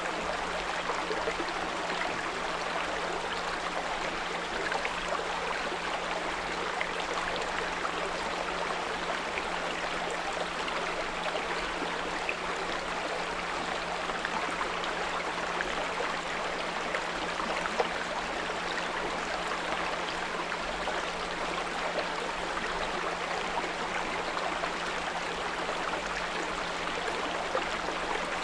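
Small brook babbling steadily, with a steady low pure tone at 174 Hz held underneath the water sound.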